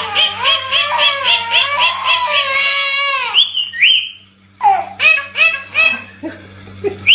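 A high-pitched voice in a rapid, rhythmic run of laugh-like calls, about four a second, ending in a falling glide, then a few short rising whistles and more scattered calls.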